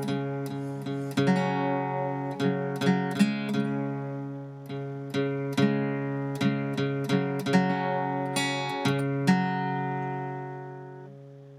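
Acoustic guitar music, plucked notes and strums ringing over low sustained bass notes, dying away to a last held chord near the end.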